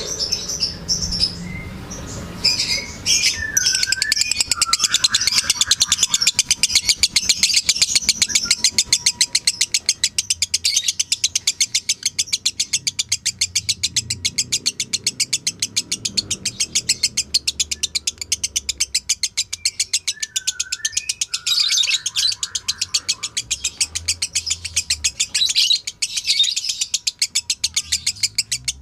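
Lovebird's long, rapid chattering song ("ngekek panjang"): a fast, nearly unbroken run of high, sharp chirps, with a few lower chirps mixed in.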